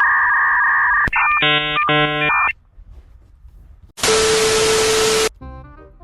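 Loud electronic sound effects: a steady two-tone beep for about a second, then a harsh buzzer sounding twice. After a short gap comes a burst of loud static hiss with a steady tone through it, lasting just over a second.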